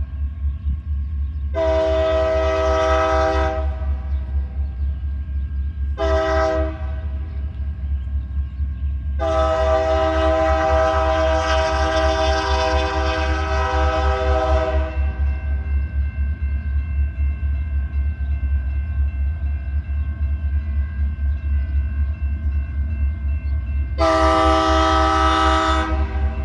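Diesel locomotive air horn blowing a chord in a long, short, long pattern, the grade-crossing signal, then one more long blast near the end. Underneath is the steady deep rumble of the passing EMD diesel locomotives of a freight train.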